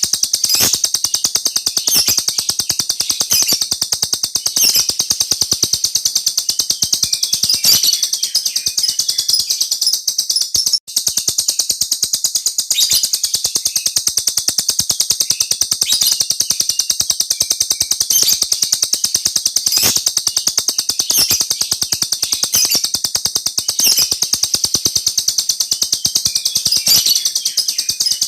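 Lovebird singing a long, fast, unbroken rolling chatter of high notes, the 'ngeroll' song prized by bird keepers, cut off for a split second about eleven seconds in.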